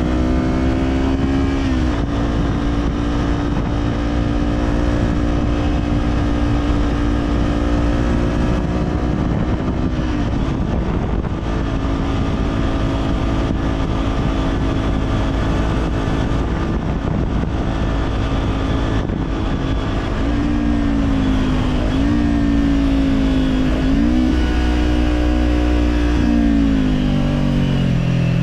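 Kawasaki Z400's parallel-twin engine through an Orion Katya slip-on exhaust, under way at a steady throttle with wind rush beneath it. The engine note drops a few seconds in and again about a third of the way through. It dips several times in quick succession two-thirds in, then falls away near the end as the throttle closes.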